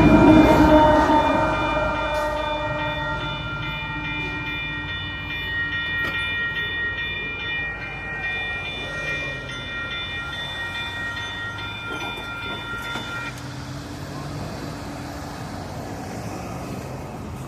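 Freight train passing and moving away, its air horn sounding one long chord that cuts off about 13 seconds in, while the rumble of the train fades.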